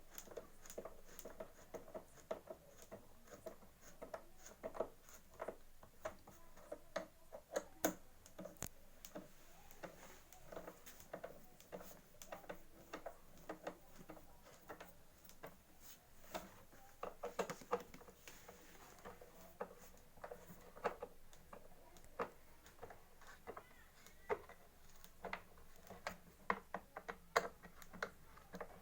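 Scattered, irregular light clicks and taps of hands and a tool working on a pump engine as its parts are tightened back up, the reassembly stage of an oil change.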